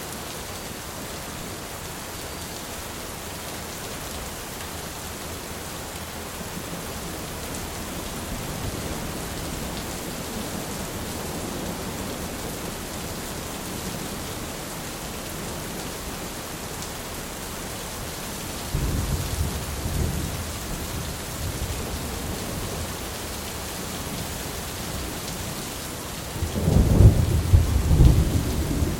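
Steady rain falling, with thunder rumbling: a soft roll about a third of the way in, a sudden low clap about two-thirds in, and the loudest crackling peal near the end.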